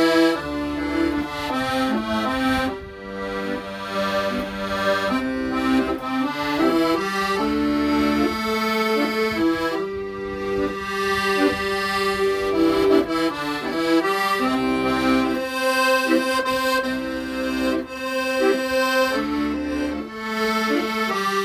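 Solo accordion playing a slow, sentimental melody with sustained chords and a bass line underneath.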